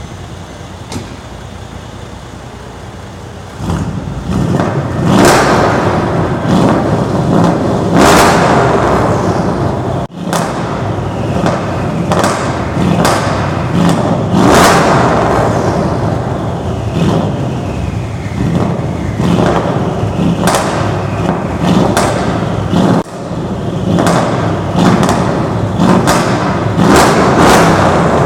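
Tuned Mercedes-Benz CLS-550 bi-turbo V8, piped with the factory mufflers removed. It runs steadily for a few seconds and is then revved hard again and again, crackling and popping as the revs fall.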